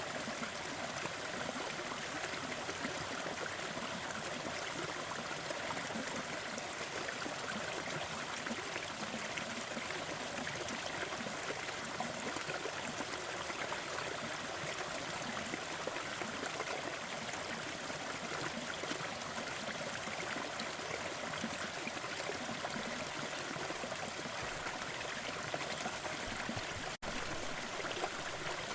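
Waterfall: steady rushing, splashing water, with a split-second dropout about a second and a half before the end.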